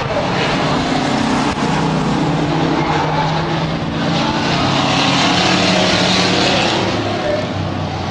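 Several stock trucks racing on a dirt oval, their engines running together in a steady drone that grows a little louder about four seconds in.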